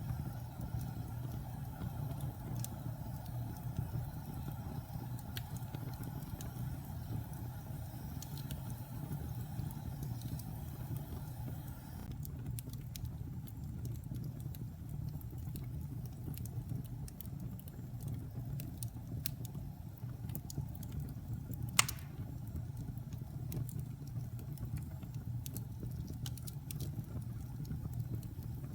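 Fire burning in a fireplace: a steady low rumble with scattered small crackles and one loud sharp pop in the second half.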